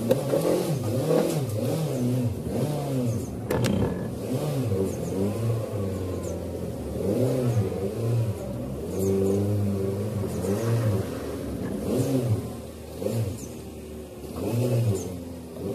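Ethanol-fuelled car engine heard from inside the cabin, revving up and dropping back over and over, about once a second. The engine is not yet warm, and an alcohol engine misfires until it warms up.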